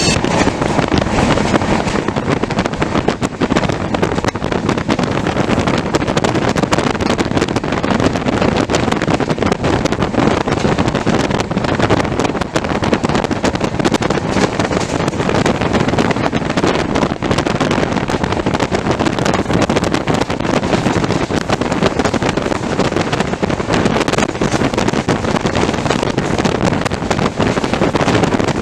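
Indian Railways express train running at speed, heard from on board: a steady, loud rush of wheels and air, with wind buffeting the microphone.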